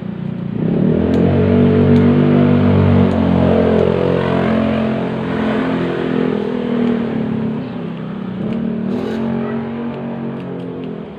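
A motor vehicle's engine revving up about half a second in, then running on and gradually dropping back.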